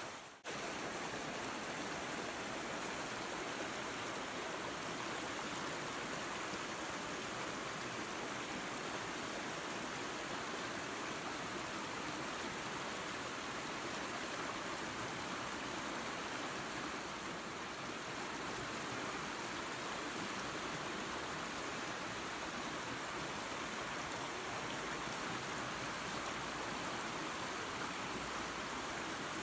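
Waterfall and creek water rushing in a steady, even hiss. The sound drops out for a split second right at the start.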